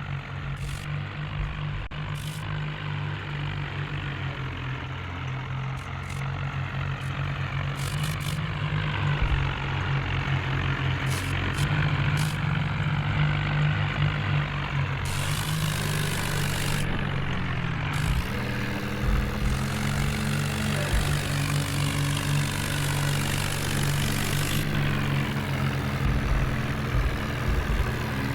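Tractor diesel engine running steadily, with a change in engine note about two-thirds of the way through.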